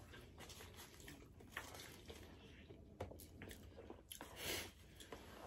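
Close-miked eating sounds: people chewing burger and chicken wings, with scattered short wet mouth clicks and smacks. One brief louder noise comes about four and a half seconds in.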